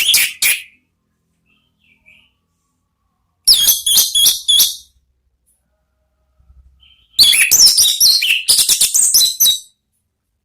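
Orange-headed thrush singing the loud, free-flowing song that bird keepers call ngeplong: three phrases of quick, high notes with pauses between them. The last phrase is the longest, about two and a half seconds.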